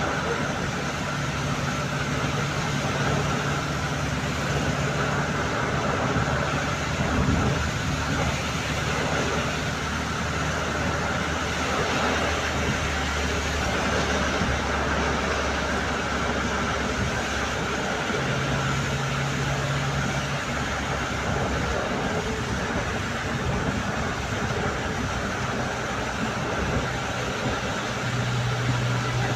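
A steady engine hum with a continuous noise bed, like a running vehicle; its low hum tones drop out and return a few times.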